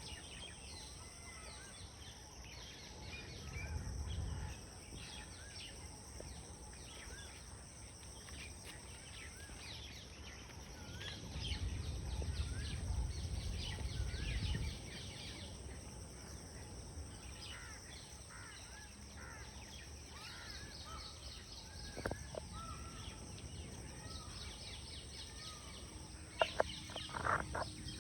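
Outdoor ambience of many small birds chirping and twittering, with low rumbles swelling a few seconds in and again midway. Near the end comes a short cluster of louder sharp sounds.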